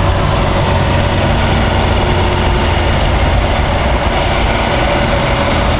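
Triumph Dolomite Sprint's 2.0-litre 16-valve slant-four engine running at speed, mixed with steady wind and road noise, heard from inside the cabin.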